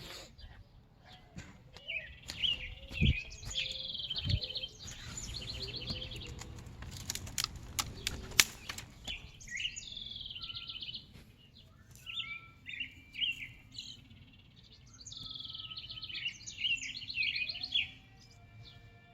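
A small injured bird chirping in rapid, high-pitched runs, in three bouts. Between the first two bouts there is a stretch of noise with a few sharp clicks.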